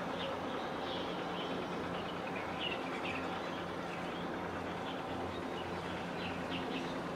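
Small birds chirping now and then over a steady low mechanical drone and outdoor background noise.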